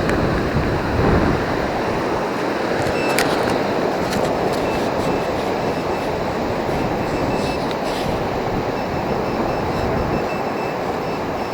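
Steady rushing of surf and moving water, with a few sharp clicks and a run of faint, short, high beeps from the metal detector signalling a target.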